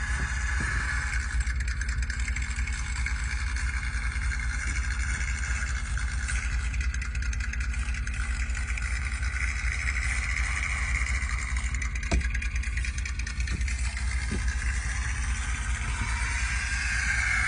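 Car engine idling steadily, with a few faint clicks about twelve to fourteen seconds in.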